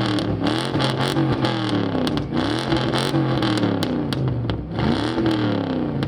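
A GM B-body station wagon's engine is revved hard over and over through a loud exhaust. The pitch rises and falls about once a second.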